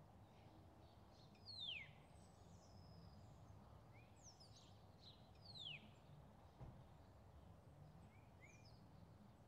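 Faint outdoor ambience: a bird calling with two clear downward-sliding whistles about four seconds apart and a few softer high chirps, over a low steady background rumble.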